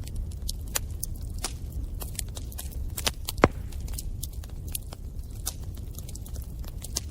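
Bonfire crackling: a steady low rumble of burning wood with frequent irregular sharp pops, one louder pop about halfway through.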